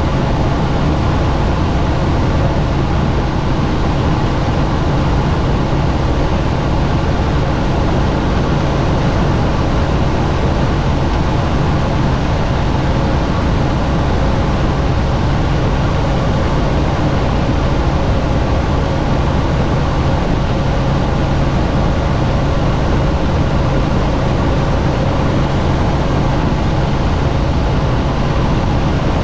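Helicopter in steady flight with the doors off: constant rotor and engine noise with a low steady hum, mixed with rushing wind.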